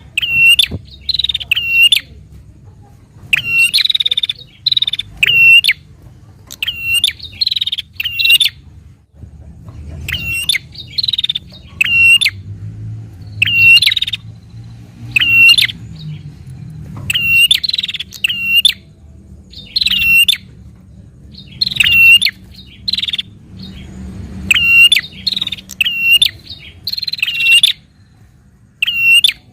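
A prinia (prenjak) calling persistently: short, sharp, high notes in quick clusters of two to four, the clusters repeating about every second or two with brief pauses between.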